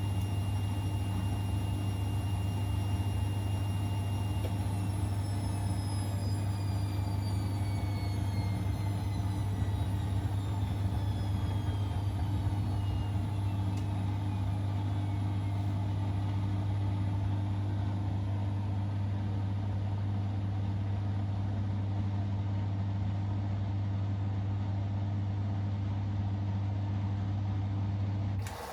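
Siemens Extraklasse XLS 140 A washing machine running mid-cycle: a steady low hum, with a high whine that falls slowly in pitch from about five seconds in and fades away. The hum cuts off suddenly near the end.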